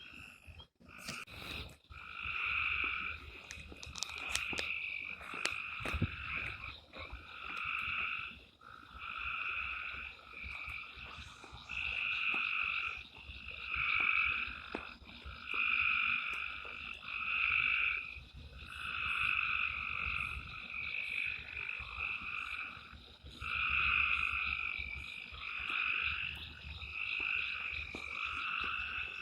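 Chorus of frogs calling: repeated calls, each lasting under a second, following one another closely and overlapping.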